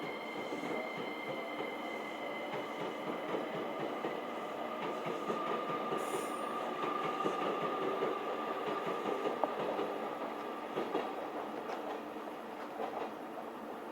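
An 885 series electric train pulling out of the station: a steady electric whine over the running rumble, with wheels clicking over the rail joints. The sound swells and then eases off near the end as the train draws away.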